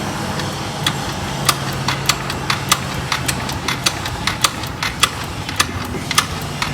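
Brand-new Rusi Gala scooter's small engine being started from cold and running, a steady low hum with sharp ticks about twice a second. A new bike like this needs the choke to start cold.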